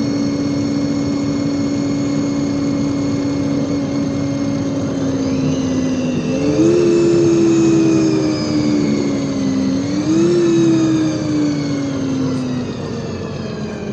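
LiAZ 5292.65 city bus drivetrain, heard from inside the cabin on the move. A steady whine twice jumps up in pitch and slides back down, growing louder each time, as the engine and gearbox change speed.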